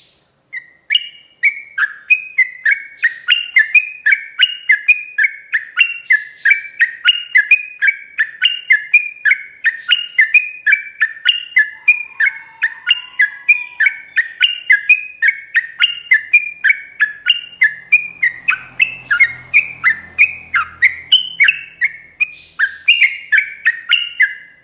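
Yellow-vented bulbul (trucuk) singing a long unbroken run of short, slurred, falling whistled notes, about three a second.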